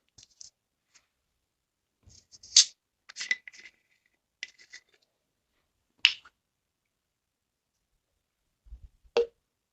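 Small plastic clicks and taps as the oil bottle and its measuring cap are handled: a few sharp clicks spread through otherwise quiet, the loudest about two and a half, six and nine seconds in.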